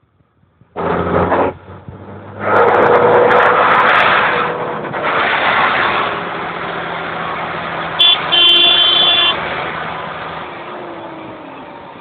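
Deutz tractors' diesel engines running loudly as they drive past, with a vehicle horn honking briefly about eight seconds in.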